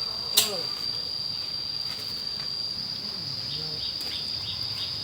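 Steady high-pitched drone of insects, one unbroken tone, with faint distant voices and a short sharp sound about half a second in.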